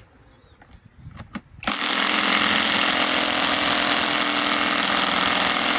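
Cordless compact impact wrench hammering steadily as it drives a fastener in under load. It kicks in suddenly a little under two seconds in, after a few faint clicks.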